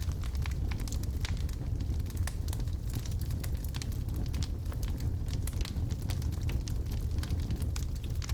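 Wood logs burning in a fireplace: a steady low rumble of the fire with frequent, irregular sharp crackles and pops.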